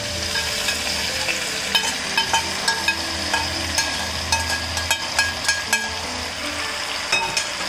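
Hot spiced ghee sizzling as it is poured over mutton in a steel pressure cooker, with a slotted spatula scraping a steel bowl in a quick run of clicks and scrapes from about two to six seconds in.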